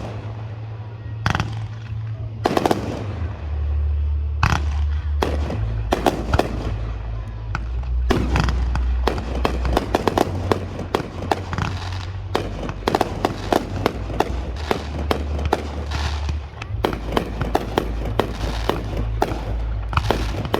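Aerial fireworks going off: separate booms and cracks at first, then from about eight seconds in a dense, rapid crackle of many bursts. Music with a steady low bass plays underneath.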